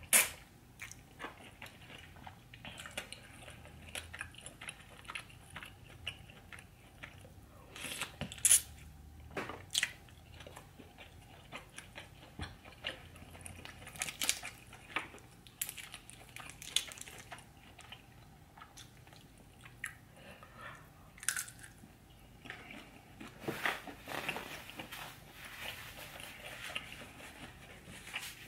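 Close-miked eating: a person biting and chewing food, with crisp crunching bites and scattered sharp clicks at an uneven pace.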